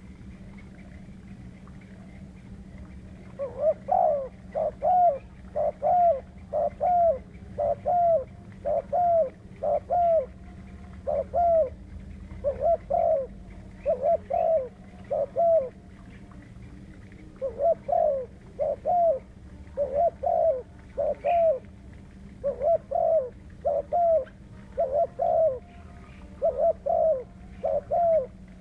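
Spotted dove cooing: a run of low, repeated coo notes begins a few seconds in and goes on in series of several calls with short pauses between them. A steady low hum runs underneath.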